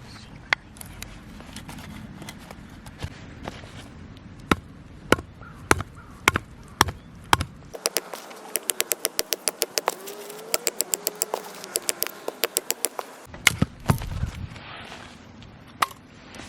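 Wood campfire crackling, with sharp irregular pops and snaps and a quick run of pops in the middle.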